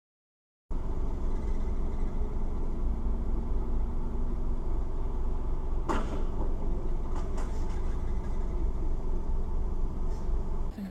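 Vehicle running on the road, heard from a dashcam: a steady low engine and road rumble that starts abruptly a little under a second in. There is one sharp knock about six seconds in and a few fainter clicks after it.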